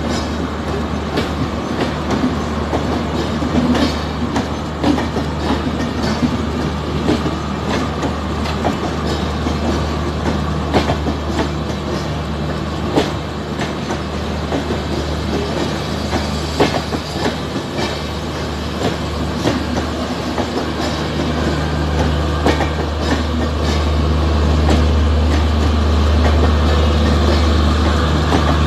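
LHB passenger coaches rolling past, their wheels clicking over rail joints. Under the clicks runs a steady low hum that grows louder over the last several seconds.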